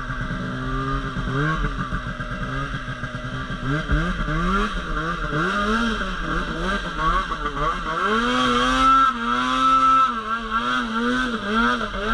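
Snowmobile engine revving up and down over and over as the throttle is worked. It is loudest about two-thirds of the way through.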